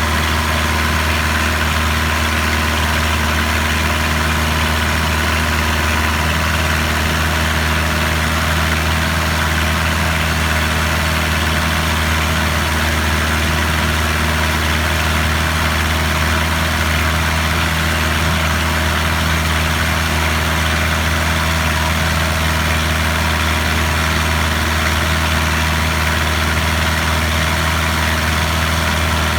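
A boat's engine running steadily, with a constant low drone that does not change in pitch or level.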